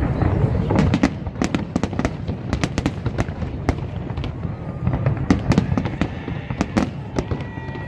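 Fireworks going off: a dense run of sharp cracks and pops over a continuous low rumble of bursts, with a brief high whistle near the end.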